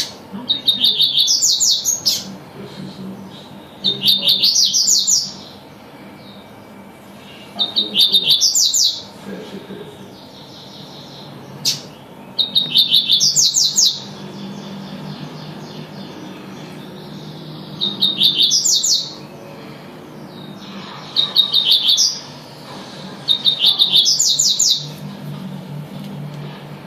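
Double-collared seedeater (coleiro) singing its tui-tui song: about seven short phrases a few seconds apart, each a quick run of repeated notes that climbs in pitch.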